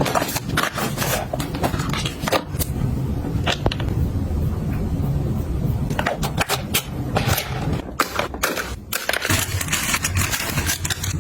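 Objects being handled and set down: irregular clicks, taps and scrapes over a steady low rumble.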